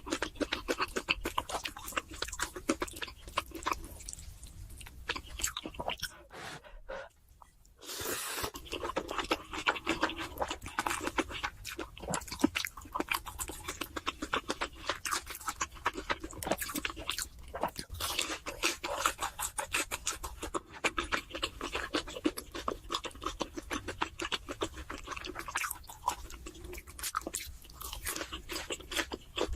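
Close-up chewing and crunching of food, as in a mukbang of fried chicken and instant noodles, with a brief pause about seven seconds in.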